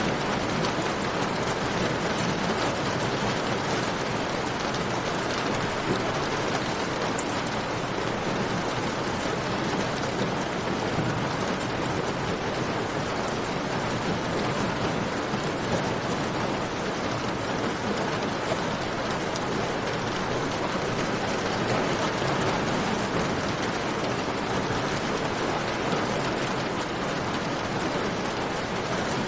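Steady rain falling, with dense dripping and splashing, mixed with the crackle of a campfire: a few sharper snaps stand out, one about seven seconds in.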